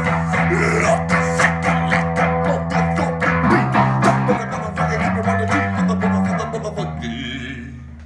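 Music: electric guitar strumming rapidly over sustained bass guitar notes, fading out near the end.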